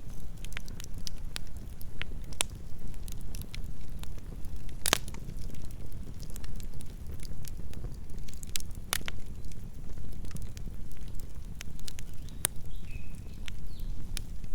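Wood campfire burning: a steady low rumble with irregular crackles and pops, two sharper pops about five and nine seconds in.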